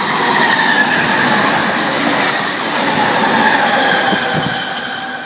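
Sydney Trains V set double-deck intercity electric train running through the station at speed: a loud rush of wheels on rail with a whine that slowly falls in pitch, easing off near the end.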